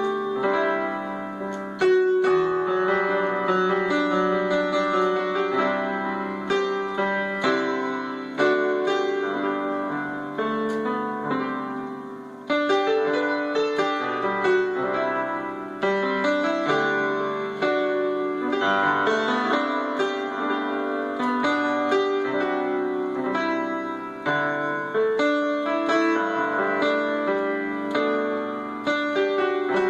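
Piano music: a continuous stream of notes and chords, dropping away briefly about twelve seconds in before resuming.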